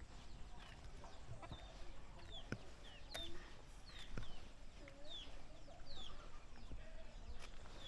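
Chickens, with short high falling peeps repeating about twice a second, and a few sharp clicks in between.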